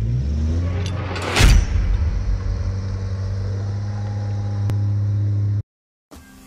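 A 4x4's engine held at steady revs as a wheel spins in loose sand, with a sudden loud rushing burst about a second and a half in. The engine sound cuts off abruptly near the end.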